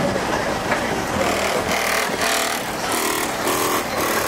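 Car engines running on a busy lot, with a mix of distant voices and short pitched sounds in the second half.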